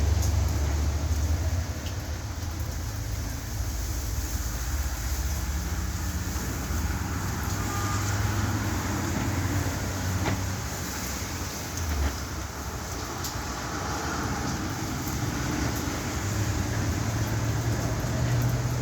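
Steady low rumble of a car with traffic noise, with a sharp click about ten seconds in and a short thump about two seconds later.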